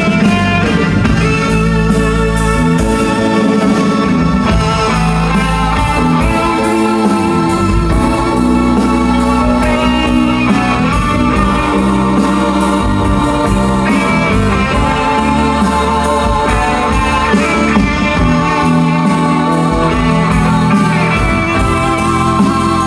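Instrumental band music with a guitar lead playing wavering held notes over sustained low bass notes that change every second or two.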